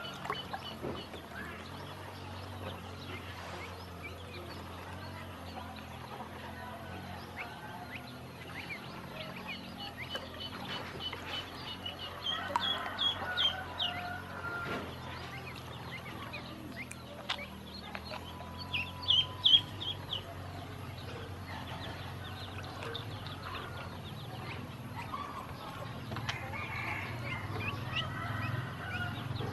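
Ducklings peeping, a stream of short high peeps with louder bursts about twelve and nineteen seconds in.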